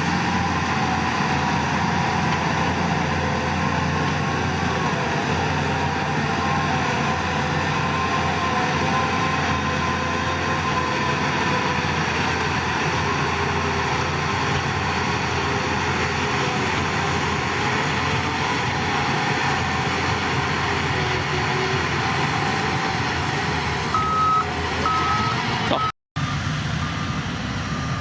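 Heavy diesel earthmoving machinery running steadily under load. Near the end a reversing alarm starts beeping at a steady rate, and the sound cuts out for a moment.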